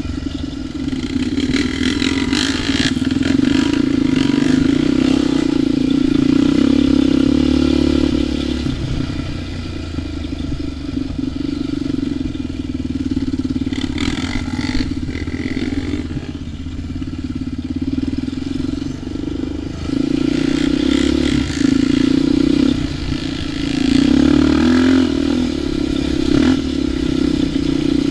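ATV engine running under changing throttle while riding a trail, growing louder and easing off several times, with occasional knocks and rattles.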